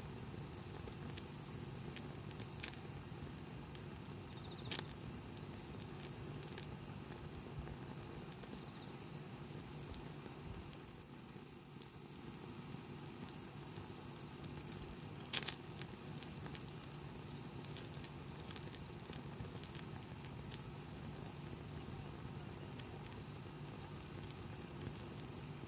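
Wood campfire burning, with a few sharp pops and crackles. A high, thin insect trill repeats throughout in phrases of about two and a half seconds.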